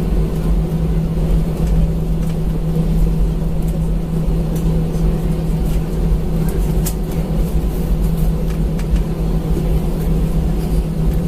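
Steady cabin noise inside an Airbus A320 on the ground with its engines running: a constant low rumble and hum, with a few faint clicks.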